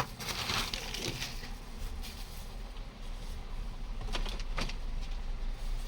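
Hands working on the plastic housing of a laser printer drum unit: a sharp click at the start, a short stretch of scraping, and two brief scrapes about four seconds in, over a steady low hum.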